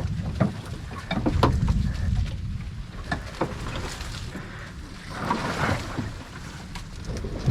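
Irregular knocks and splashing water around a small aluminium jon boat, over a low rumble of wind on the microphone, with a longer swish of water about two-thirds of the way through.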